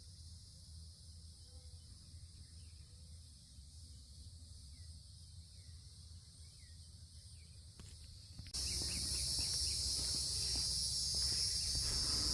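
Steady high-pitched insect chorus, with a few faint short chirps in the first half. About two-thirds of the way in, the insect drone abruptly becomes much louder, with added low rumble.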